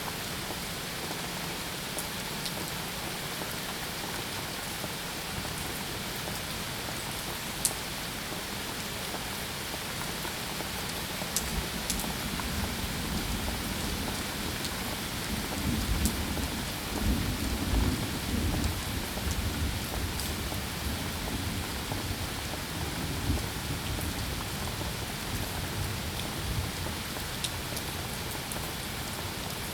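Steady rain with scattered sharp drop ticks, during a thunderstorm; a low roll of thunder swells up through the middle and fades away again.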